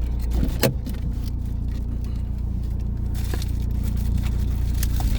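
Car engine idling, heard from inside the cabin as a steady low rumble, with a sharp click a little over half a second in and a few faint ticks later.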